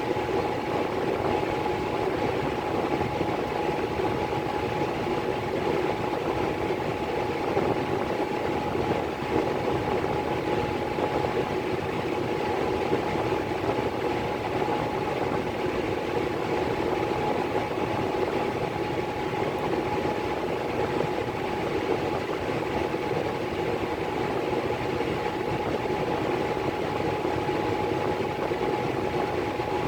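Miller E3 furnace blower running steadily: a motor hum with one steady tone over an even rush of moving air.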